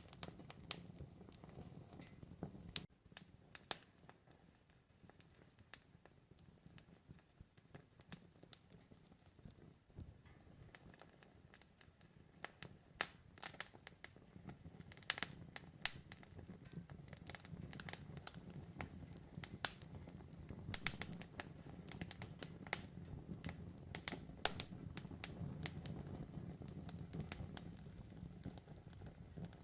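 Campfire crackling: irregular sharp pops and snaps over a low, steady rumble of the burning fire.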